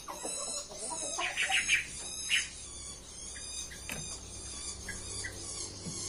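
Small birds chirping and twittering, with rapid high calls throughout. A louder burst of chattering comes about a second in, and a shorter one just after two seconds.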